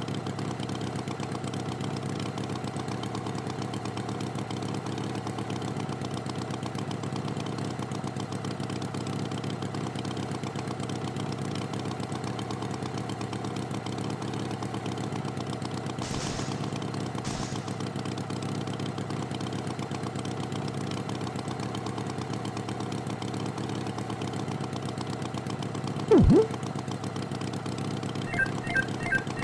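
Tractor engine idling steadily. Near the end there is one short, loud swooping tone, and a fast regular ticking begins just before the end.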